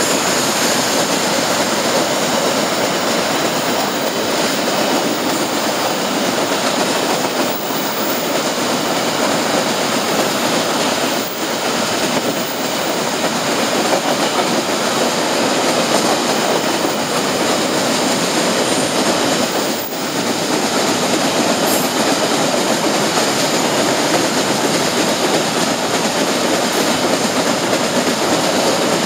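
Loaded ore train's wagons rolling past close by on the rails, with a freight train moving on the next track. Steady, loud wheel-on-rail noise from the passing cars.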